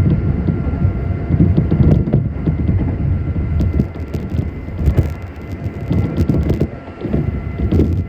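Nankai 7100 series resistance-controlled electric train running: a steady low rumble of motors and wheels on the rails, with a run of sharp clicks in the middle.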